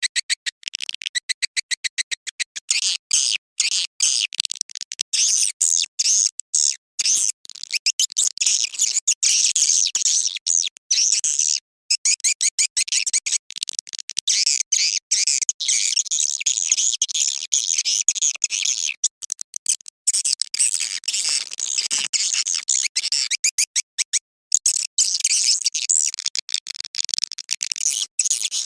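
Edible-nest swiftlet calls played as a lure sound: a dense run of rapid, high-pitched chirps and twittering trills with a few short breaks. This is the 'birahi' mating-type call used to draw swiftlets into a nesting house.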